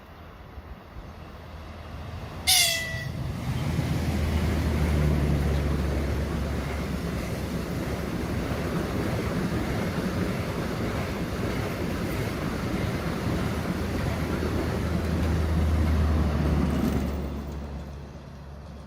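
A short horn toot from a train about two and a half seconds in, then the train passing at speed with a steady heavy rumble that dies away about seventeen seconds in.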